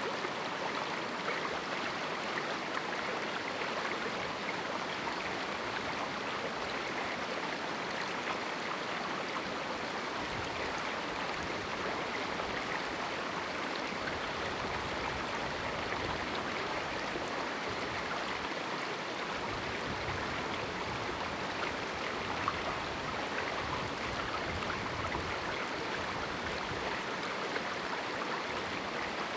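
A river flowing and babbling over rocks in a small canyon, a steady rush of water.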